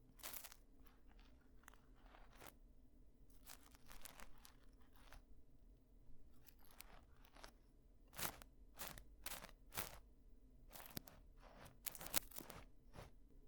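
Ear-cleaning ASMR: a tool scraping and rubbing at a microphone's ear, in faint, irregular scratchy crunches that come in clusters, busiest in the second half, over a steady low hum.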